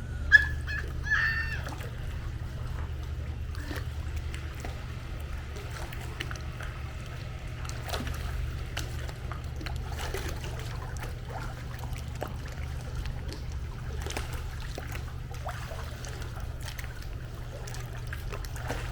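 Swimming pool water splashing and sloshing as a person moves and exercises in it, with irregular small splashes over a steady low rumble.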